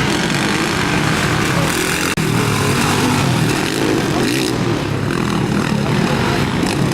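Motocross motorcycle engines running hard in a race, a loud, continuous engine drone with pitch wavering up and down as the riders work the throttle.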